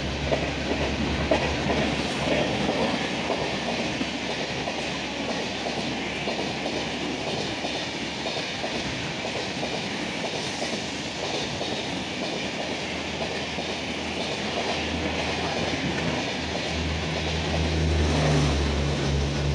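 Passenger train running through the station on Indian Railways track, a steady loud rush of wheels and coaches going by, with a low hum that is stronger at the start and again near the end.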